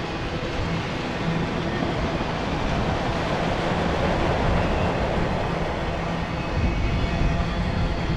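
Enclosed autorack freight cars rolling past on steel wheels: a steady rail noise with a low rumble that keeps an even level throughout.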